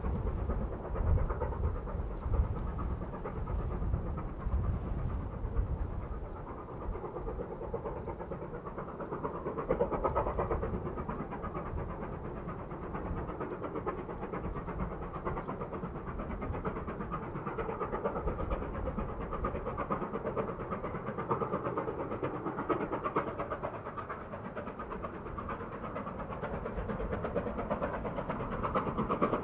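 China Railways QJ class 2-10-2 steam locomotive working, its exhaust chuffing in a steady, even rhythm. A low rumble in the first few seconds fades away.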